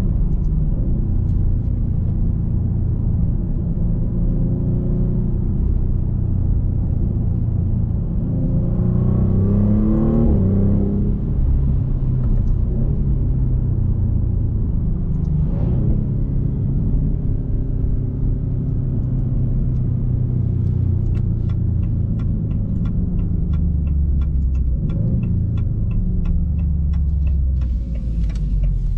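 Twin-turbo 3.0-litre Nettuno V6 of a 2024 Maserati GranTurismo Modena running while driving, a steady rumble heard from the driver's seat. The revs climb for a few seconds about a third of the way in, then drop back, with a brief rise again about halfway. In the last several seconds a regular ticking runs over the engine.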